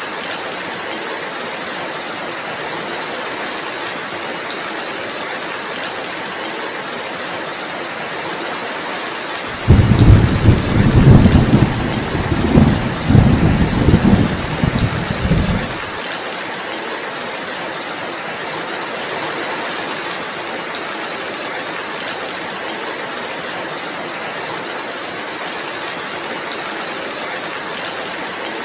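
Steady heavy rainfall, with a loud rumble of thunder that swells and surges for about six seconds, starting about a third of the way in.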